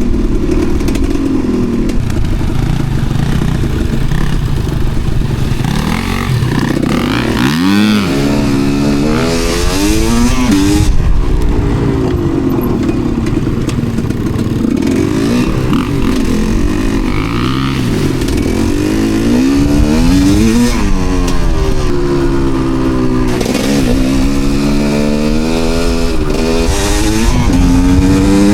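Enduro motorcycle engine ridden off-road, revving up and dropping back over and over, its pitch rising and falling every couple of seconds as the throttle is worked.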